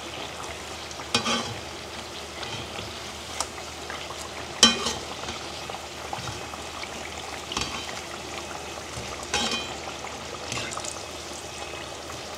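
Battered taro slices sizzling steadily in hot oil in a frying pan, with a few short sharp clicks and sizzle bursts as metal tongs turn the pieces, the loudest about four and a half seconds in.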